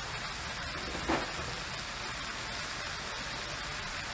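Chicken and vegetables sautéing in a stainless steel pan, a steady sizzle, with one short louder blip about a second in.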